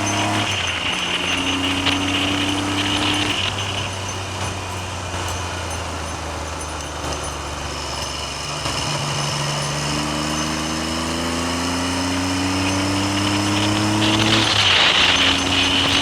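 Triumph Trident three-cylinder motorcycle engine under way. The engine note climbs steadily through each gear and drops back at several gear changes, with heavy wind noise on the microphone.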